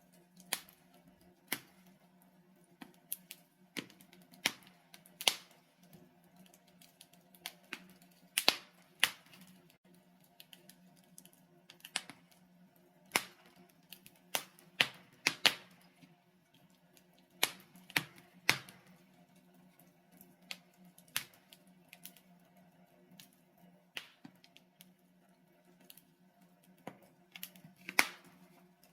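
Logs burning in a fireplace, crackling with irregular sharp pops, sometimes singly and sometimes in quick clusters, over a faint steady low hum.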